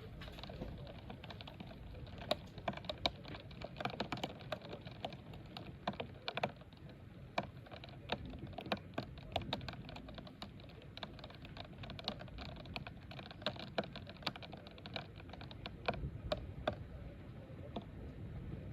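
Typing on a computer keyboard: irregular key clicks, several a second, over a low steady background noise.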